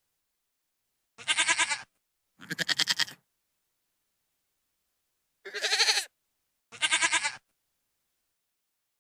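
A goat bleating loudly four times, in two pairs, each call a wavering, quavering bleat with dead silence between the pairs.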